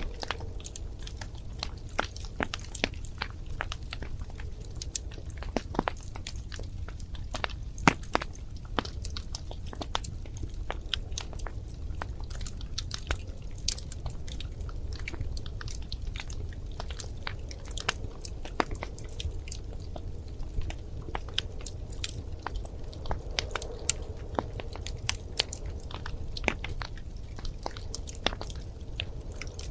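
Wood fire crackling in a fireplace: many irregular sharp pops and snaps over a low steady rumble of the flames.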